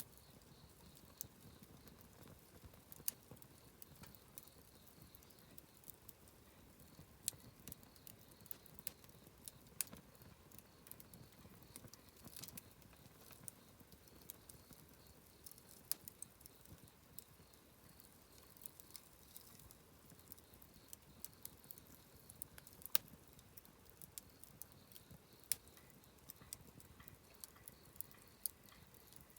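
Wood campfire crackling quietly, with irregular sharp pops and snaps, a few of them louder than the rest.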